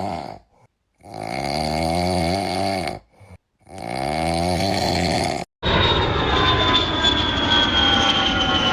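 Long drawn-out snoring sounds, repeated with short pauses between them. From about two-thirds of the way in, an airplane flies by with a steady engine noise and a whine that falls slowly in pitch.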